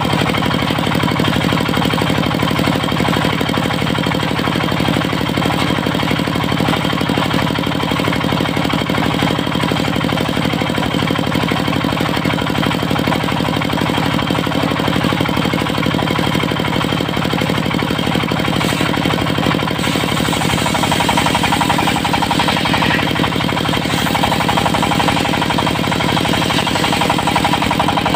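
Diesel engine of a portable circular-saw sawmill running steadily with a fast, even knock. About twenty seconds in, a higher tone joins and it gets slightly louder.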